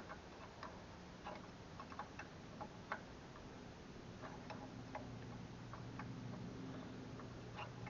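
Faint, irregular small clicks and taps of hand tools on metal parts, with a low steady hum coming in about halfway through.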